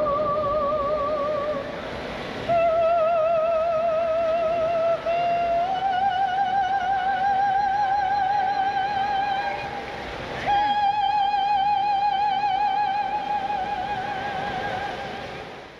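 A gondolier singing opera unaccompanied in a high voice, holding long notes with a wide vibrato and stepping up to a new held note about ten seconds in, then fading out near the end.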